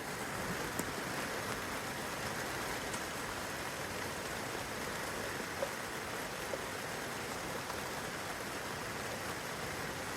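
Steady rain falling on leaves, branches and grass, a continuous even patter with a few single louder drips.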